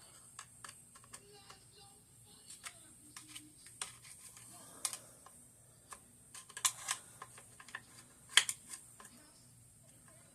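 Scattered small clicks and taps of AK-47 rifle parts being handled while the new lower handguard is fitted and locked in, with the sharpest clicks about two-thirds of the way through.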